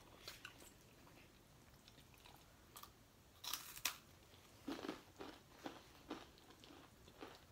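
Faint eating sounds: close-up chewing of food with a few soft crunches and clicks, the densest about three and a half seconds in.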